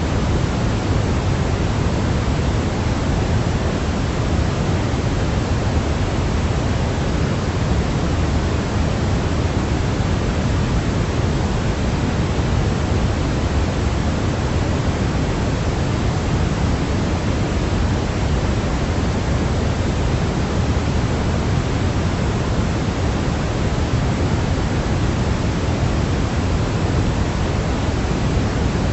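Steady white noise for a baby's sleep: an even, unchanging hiss, weighted toward the low end like pink noise.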